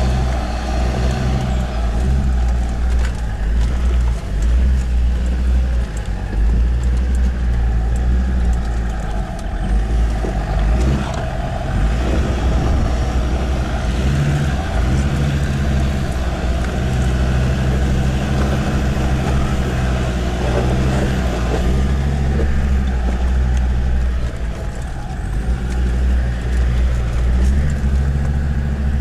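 Land Rover Discovery 2 Td5 diesel engine running steadily as the vehicles crawl up a rough off-road track. The engine pitch shifts now and then, and tyre and track noise is mixed in.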